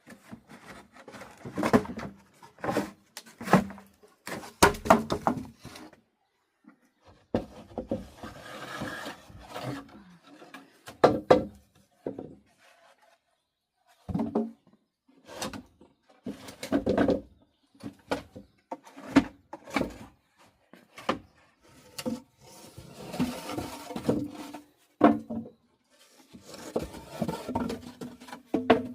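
Irregular knocks and clatter from hands-on work, broken by stretches of scraping or rustling.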